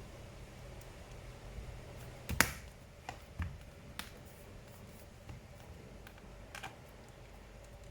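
A few sharp small clicks and taps of hand tools and screws on a laptop's case during reassembly, the loudest about two and a half seconds in, with a faint low hum underneath.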